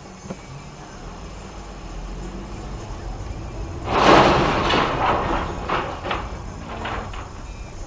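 A low rumble building, then a loud crash about four seconds in, trailing off with several sharp cracks.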